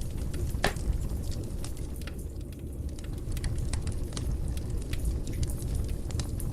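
Wood fire crackling: scattered sharp pops and snaps over a low steady rumble, with one louder pop less than a second in.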